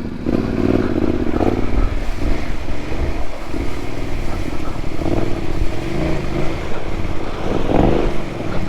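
Motorcycle engine revving up and down several times while riding through a deep river ford, with rushing, splashing water. The water is deep enough to reach the bottom of the panniers and wet the rider's boots.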